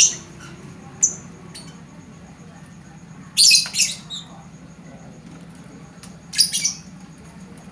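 Lovebird giving short, shrill squawks: single calls at the start and about a second in, a harsh cluster around the middle, and another near the end.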